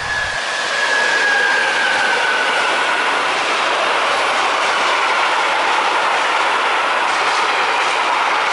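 A long freight train's wagons rolling past close by, a steady noise of wheels on rail. A thin wheel squeal sounds over the first few seconds, sliding slightly down in pitch.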